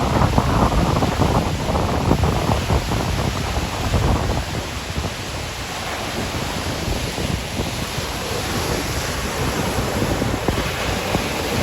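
Cyclone wind buffeting the microphone in heavy gusts, over the rush of big, rough sea waves.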